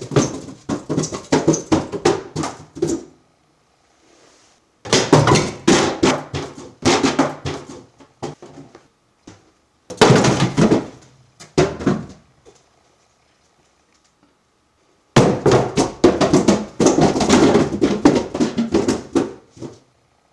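Boxes and other objects tumbling to the floor in four bursts of rapid clattering knocks and thuds, with short silences between them; the last burst is the longest.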